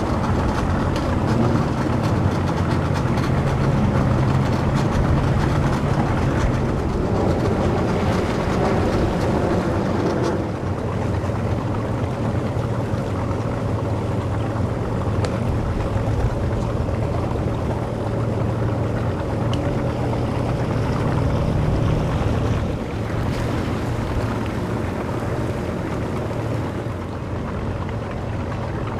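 Boat motor running steadily at low speed, a low even hum with slight changes in level partway through.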